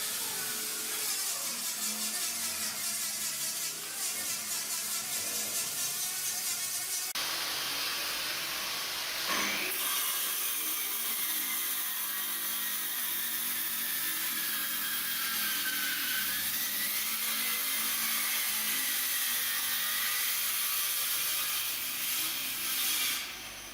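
A power tool working wood, running steadily, with a faint whine that wavers in pitch; the sound changes abruptly about seven seconds in.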